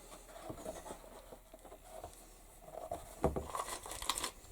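Hands rummaging through a container of small leatherworking hardware: scattered light clicks and rustles, a sharper knock a little past three seconds in, then a quick run of small clicks.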